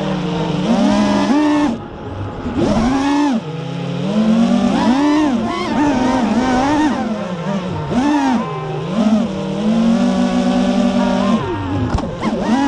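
FPV quadcopter's brushless motors whining, the pitch swooping up and down over and over as the throttle is worked, with a brief drop in level about two seconds in.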